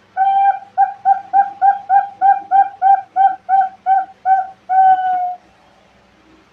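Zebra dove (perkutut) cooing: a run of about a dozen short, evenly spaced notes at a steady pitch, about three a second, ending in one longer note that falls slightly.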